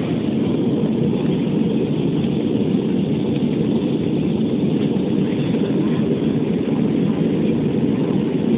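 Steady cabin noise inside an Airbus A320 climbing after takeoff: a constant low rush of engine and airflow noise.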